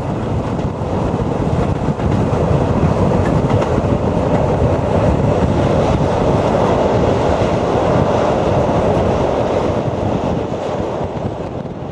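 Passenger train running along the rails, its wheels and carriages giving a steady dense rumble as it crosses a high viaduct. The rumble grows louder over the first few seconds and eases off near the end.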